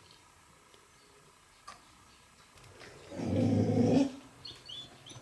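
A pet animal's low, drawn-out call lasting about a second, followed by a few short high squeaks.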